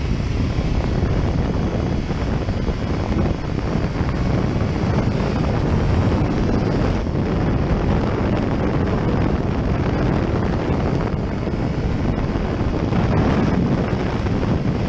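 Steady, loud wind noise buffeting the microphone of a camera on a moving motorcycle.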